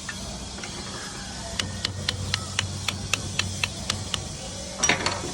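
A run of sharp clicks, about four a second, then a louder clatter near the end, over a steady hiss and a low hum.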